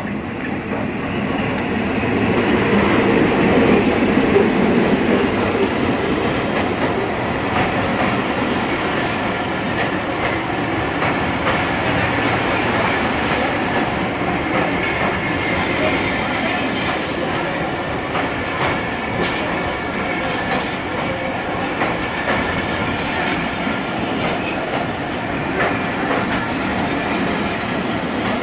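Passenger train passing at close range, hauled by a fifty-year-old diesel locomotive. The locomotive is loudest in the first few seconds as it goes by, then the coaches' wheels keep up a continuous clatter over the rails.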